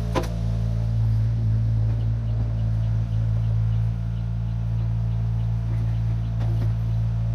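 The 1972 Chevrolet C50 dump truck's engine running steadily in a constant low drone. A short clink sounds just after the start, and a fainter one about six and a half seconds in.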